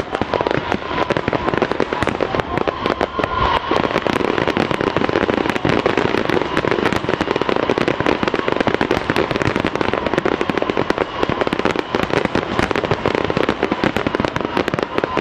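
Aerial fireworks going off in a dense, continuous barrage of rapid crackling and popping bangs.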